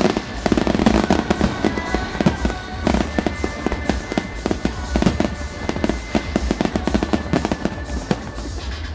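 Aerial fireworks going off in quick, irregular succession, a dense run of bangs and crackles, with music playing along.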